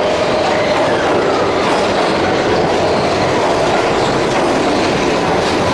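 Keihan Main Line electric train moving along the platform, a loud steady rumble of wheels on rails with clattering. A faint tone slides down in pitch in the first second.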